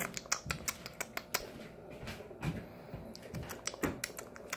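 Moustache parakeet's beak clicking and nibbling at a piece of date: a run of quick, irregular small clicks with a few soft taps.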